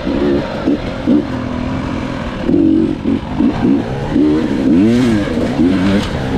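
Dirt bike engine revving hard, its pitch rising and falling over and over as the throttle is worked, loudest about five seconds in.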